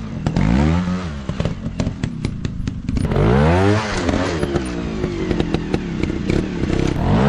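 Dirt bike engine revving in surges, the pitch rising and falling sharply as the throttle is opened and closed, with a burst of rapid crackling ticks between revs.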